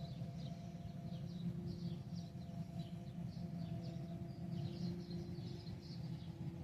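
Many small birds chirping in quick, short falling notes, over a steady low engine hum.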